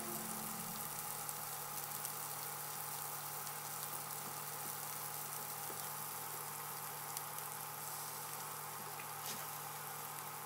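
Chopped onion and garlic sautéing in olive oil in an enamelled cast-iron pot: a steady, quiet sizzle with a few faint clicks.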